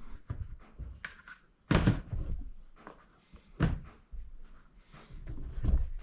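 Footsteps and scattered knocks and thuds of someone moving about and handling things, with three louder thumps spread through. A steady high cricket chirring runs behind.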